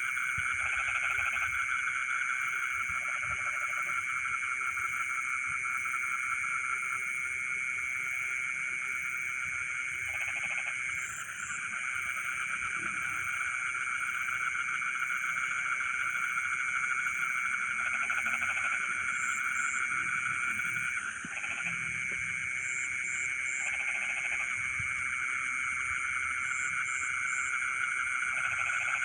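Frog chorus in a rice field at night: a dense, steady calling, with lower individual croaks standing out every few seconds and brief high chirps now and then.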